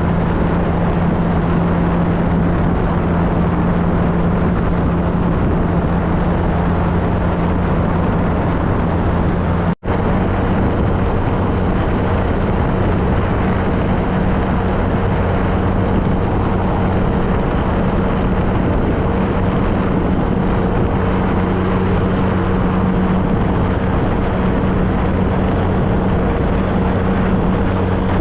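2013 Triumph Trophy SE's inline three-cylinder engine running at a steady note while riding, over a constant rush of wind and road noise. The sound drops out for an instant about ten seconds in, and the engine note is slightly higher afterwards.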